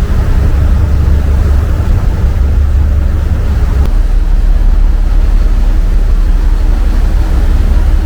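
A passenger ferry's engines running, a loud steady low rumble with a spread of noise above it, heard from on board.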